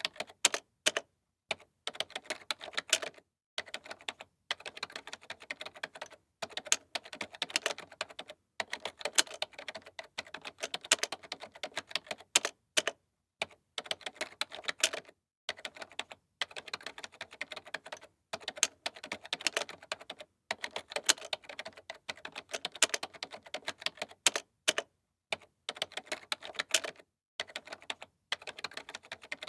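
Typing on a computer keyboard: rapid runs of key clicks, broken by short pauses every few seconds.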